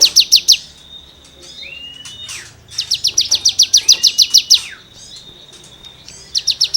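Cigun songbird singing in rapid bursts of sharp, scratchy repeated notes, about ten a second. One burst ends just after the start, a second runs for about two seconds in the middle, and a third begins near the end, with a few short whistled slurs in the gaps.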